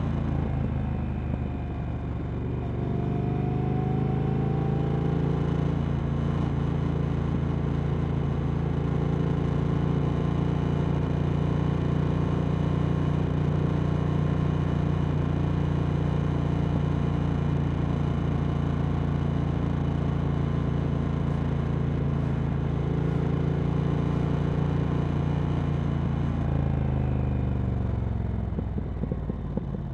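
Triumph Speed Twin 1200's parallel-twin engine running through Vance & Hines slip-on exhausts under way. It pulls up through the revs a couple of seconds in, holds a steady cruise, then the revs fall away as the throttle closes near the end.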